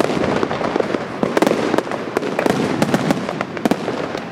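Fireworks display: aerial shells bursting overhead in a rapid, irregular run of sharp bangs and cracks.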